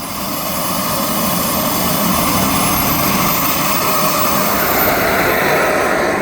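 Model jet's Frank T180 turbine engine running, a dense rush with a thin high whine that rises and then falls, easing off near the end.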